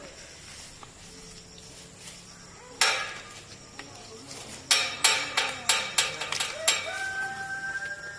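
Sharp knocks: one loud knock about three seconds in, then a quick run of about eight knocks, some four a second. Near the end a long, held, high call begins.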